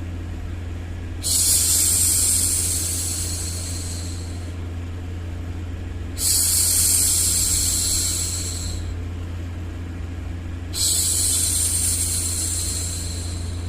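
A woman's voice hushing a long 'shhh' three times, each hiss starting suddenly and fading away over about three seconds. Beneath it runs a steady, low white-noise hum for soothing a baby to sleep.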